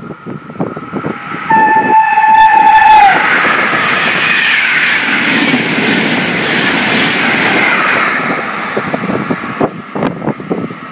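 Trenitalia passenger train running through the station at high speed. It sounds one long horn note about a second and a half in, which dips in pitch as it stops. A loud rush of wheels and air follows for about six seconds as the coaches pass, then fades near the end.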